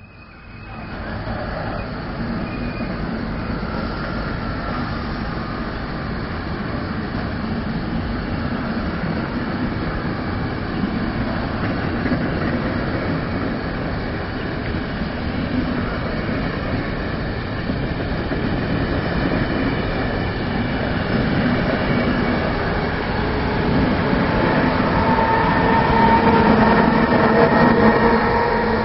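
A train passing close by on the line: a long, steady rumble of wheels on rails that starts about a second in and builds slowly, with a few thin squealing tones coming in over the last few seconds.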